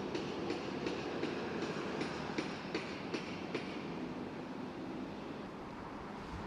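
Rail vehicle, such as a tram or train, passing with a steady rumble and a regular clicking of wheels over the track that fades after a few seconds.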